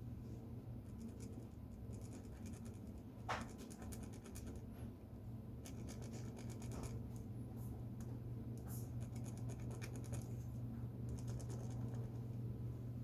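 Pen scratching on paper in short strokes and clusters as a drawing is inked, over a steady low hum. A brief squeak comes about three seconds in.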